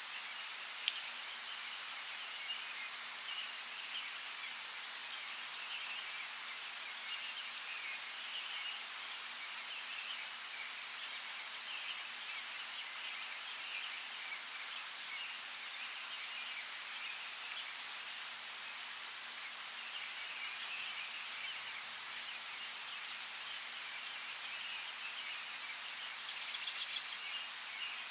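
Steady rain hiss with a few scattered drop ticks and small birds chirping continuously. About two seconds before the end comes a short, rapid trill of chirps, the loudest sound.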